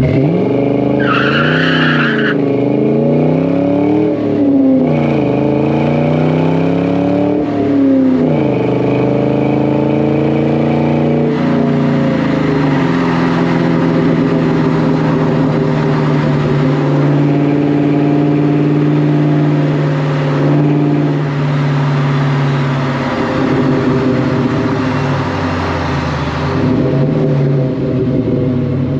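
2000 Ford Mustang GT's 4.6-litre V8 through a Flowmaster American Thunder cat-back exhaust, accelerating hard through several gear changes, the pitch climbing and dropping back at each shift, then cruising at a steady pitch. A brief high squeal about a second in.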